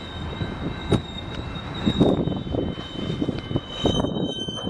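A freight train rolling slowly by: a steady high-pitched squeal from the wheels on the rail, irregular clanks and knocks from the wheels and cars, over a low rumble.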